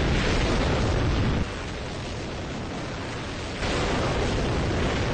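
Hydrogen-oxygen rocket engine firing: an unbroken, very loud rush of noise that drops somewhat in level for about two seconds in the middle.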